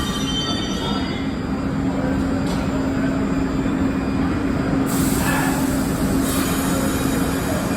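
R62A subway train at a station platform, running with a steady rumble and an even electrical hum. The wheel squeal dies away at the start, and there is a burst of hiss about five seconds in.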